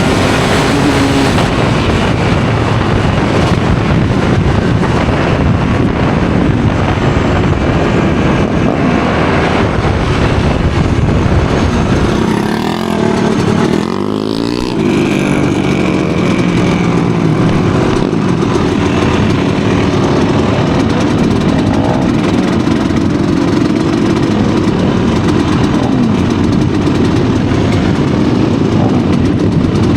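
Studded ice-racing motorcycles running hard at high revs, a loud continuous engine sound throughout. The sound dips briefly and sweeps in pitch a little before halfway, then comes back up.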